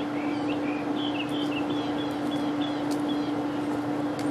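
Bird chirping in a quick series of short, high notes over a steady low mechanical hum that holds one pitch throughout. The chirps thin out about halfway through, and a few faint sharp ticks are heard.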